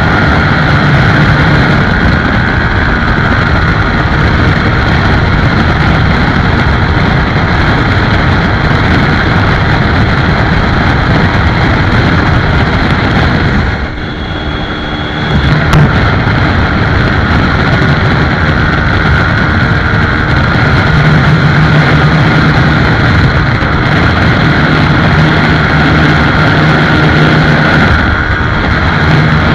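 Motorcycle riding at speed: the engine runs steadily under heavy wind noise on the microphone. Briefly quieter about halfway through, then loud again.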